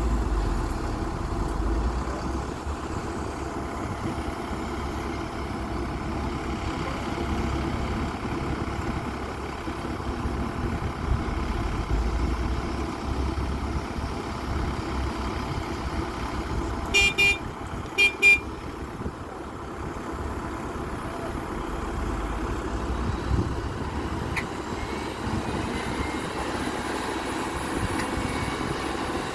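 XCMG 140 excavator's Cummins diesel engine running steadily. About two-thirds of the way through come two pairs of short, high horn toots.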